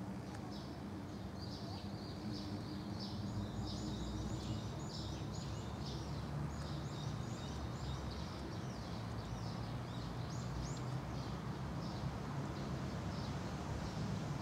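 Many small birds chirping in quick, high calls, thickest in the first two-thirds of the stretch and then sparser, over a steady low background rumble.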